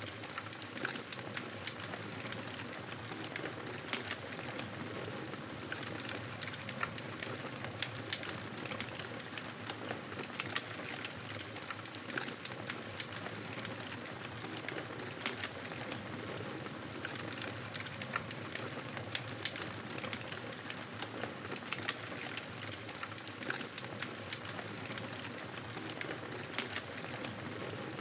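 Wood fire in a fireplace crackling steadily, with frequent small sharp pops and snaps over a soft, even hiss of the flames.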